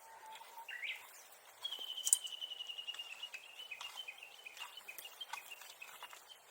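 Japanese bush warbler (uguisu) calling: a low held whistle, a quick rising note, then a long rapid run of high notes slowly falling in pitch, the bird's alarm call. A single sharp crack sounds about two seconds in.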